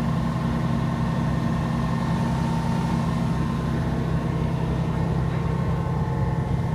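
Truck engine running steadily at a constant low pitch, with no revving.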